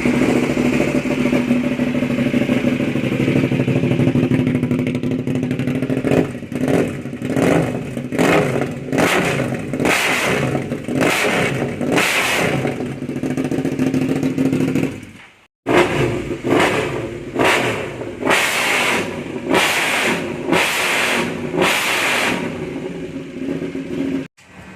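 Aprilia Dorsoduro 1200's 90-degree V-twin engine through an SC Project exhaust, idling steadily and then revved in repeated short blips, about one a second. There is a brief break about halfway through, then another run of blips.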